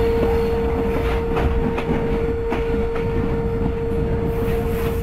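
Passenger train coaches rolling slowly along the track, heard from an open coach window, with a low rumble, irregular wheel clicks over rail joints and a steady whine throughout.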